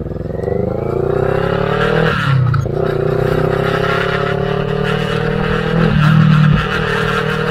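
CFMoto 400NK motorcycle's parallel-twin engine pulling away and accelerating. The revs climb steeply, drop at an upshift about two seconds in, then climb more slowly before another shift near six seconds.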